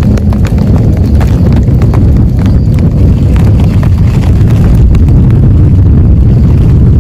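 Heavy rainstorm: a loud, continuous deep rumble with dense drop clicks over it, cutting off suddenly at the end.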